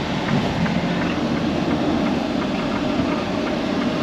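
Steady engine and road noise inside a semi truck's cab while it drives: an even rumble and hiss with a low hum.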